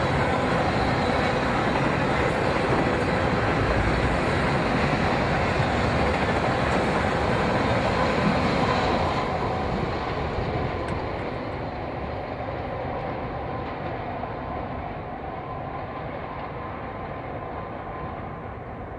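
A train passing on the rails, its wheel-on-rail noise steady and loud for about nine seconds, then gradually fading and dulling as it moves away.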